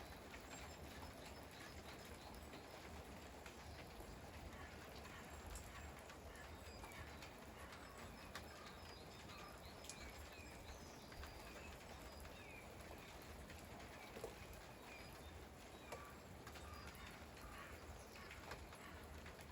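Faint, steady patter of light rain with scattered drips, and small birds chirping now and then.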